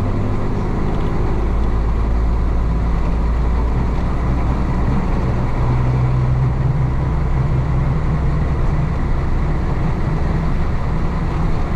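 1966 Isuzu BXD30 bonnet bus's DA640 diesel engine running as the bus drives, with its note changing about five seconds in.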